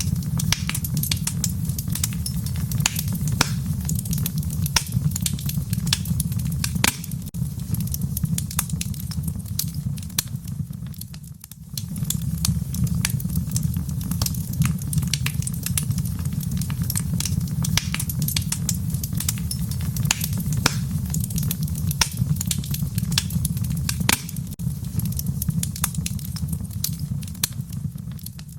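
Wood fire burning in a fireplace, with dense, irregular crackles and pops over a steady low rumble. The sound dips briefly about a third of the way in.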